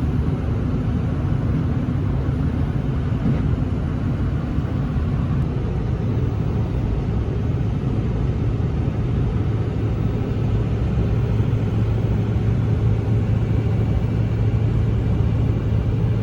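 Steady road and engine noise of a pickup truck driving at speed, heard from inside the cab: an even low rumble with a steady hum under it.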